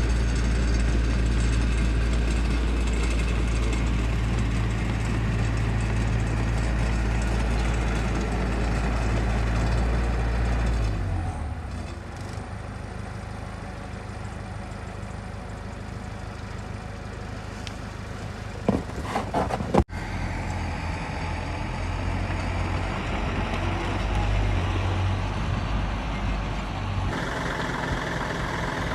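Heavy diesel engine of construction machinery running steadily, loud for about the first ten seconds and then quieter. A couple of short sharp knocks come about two-thirds of the way through.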